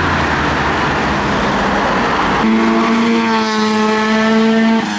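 Cars driving past close by with engine and exhaust noise. About halfway through, one car holds a loud, steady engine note for about two seconds, and it cuts off near the end.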